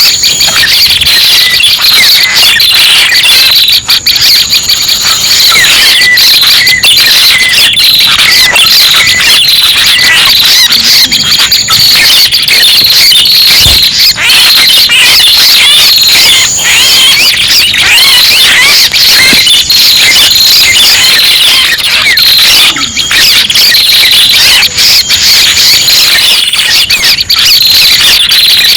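Bird-luring recording of prenjak pala merah (red-headed prenjak) calls: dense, continuous, rapid high-pitched chirps and trills, loud and overlapping, played as a lure to attract the bird.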